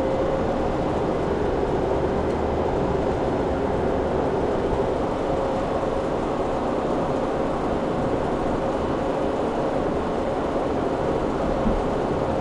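Steady drone of running kitchen refrigeration and ventilation machinery, with a constant mid-pitched whine held throughout.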